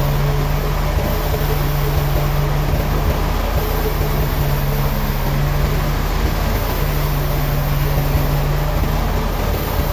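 Heavy machinery running steadily, with a low engine hum that fades and returns every couple of seconds.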